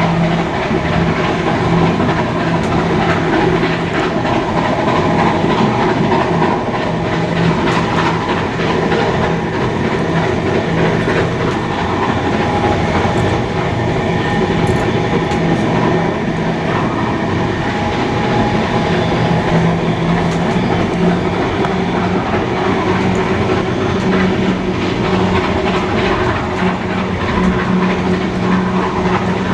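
A steam-hauled passenger train running along the line: continuous, even rolling noise of wheels on rails, with a few steady tones under it.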